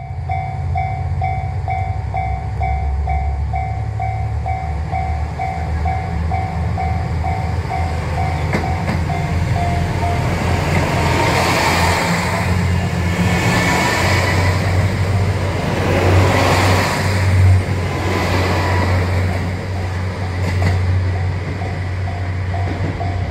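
Japanese level-crossing warning bell clanging about twice a second, then a train passing over the crossing for about ten seconds, its wheels clacking over the rail joints. The bell is heard again near the end.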